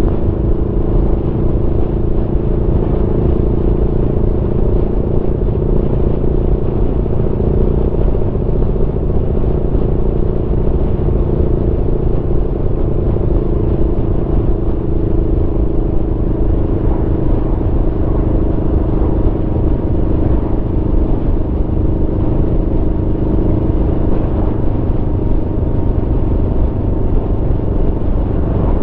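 Aprilia Tuono V4 motorcycle's V4 engine running steadily at cruise, its note holding nearly level throughout, over a constant low rumble.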